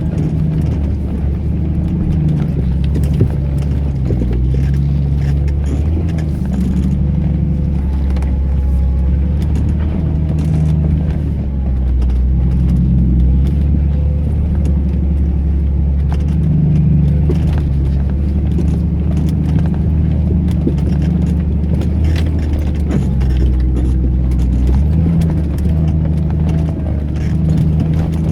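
Vehicle engine running steadily under load on a rough dirt track, its revs rising and falling.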